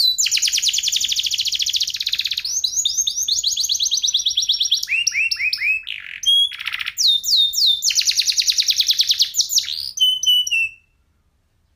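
Domestic canary (F1SF crossbreed) singing a continuous song of fast rolling trills of repeated high notes, some phrases sweeping down in pitch. There is a short break about six seconds in, and the song stops abruptly near the end.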